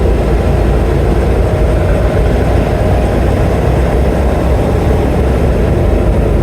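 Semi truck's diesel engine running steadily, heard from inside the cab as the truck is driven.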